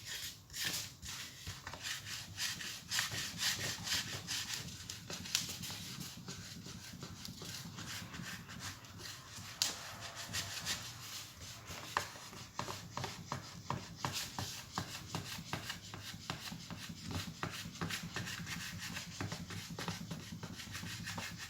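Hot clothes iron rubbed and pressed over paper on a copper-clad circuit board, a soft, irregular scratchy rubbing, as it transfers the printed toner tracks onto the copper.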